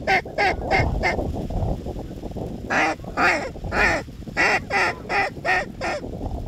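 Goose honking in quick short calls: a run of about four right at the start, a pause, then about eight more in a rapid cadence from near the middle on.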